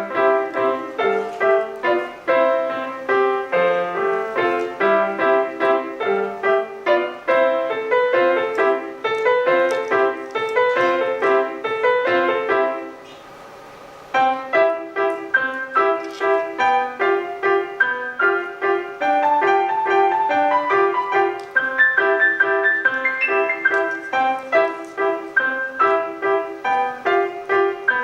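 Solo piano playing a piece in a steady run of quick, separate notes, with a brief pause a little under halfway through before the playing resumes.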